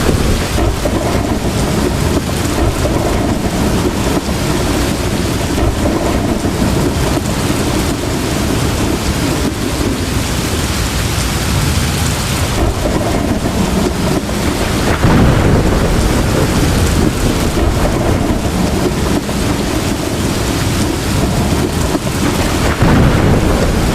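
Heavy rain pouring steadily with thunder rumbling underneath. The thunder swells louder about 15 seconds in and again near the end.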